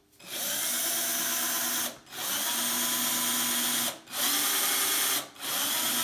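Electric drill boring small holes in a bicycle seat post. It runs in four short spells of about one to two seconds each, stopping briefly between them, which keeps the drill from going too deep and the part and bit from getting hot.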